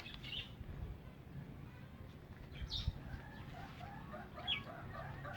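Chickens clucking in a run of short repeated calls that starts about halfway through, with a couple of brief high chirps before it.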